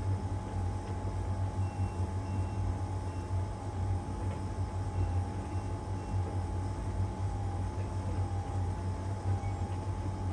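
LG heat pump tumble dryer running mid-cycle in its drying stage, the drum turning one way. It makes a steady low hum with a thin steady whine above it and an even rumble.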